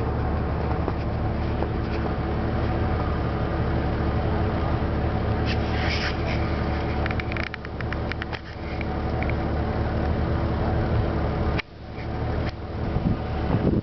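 A 4x4 car's engine running steadily as the car moves over a snow-covered road, with a few clicks and rustles about halfway through and a brief dropout near the end.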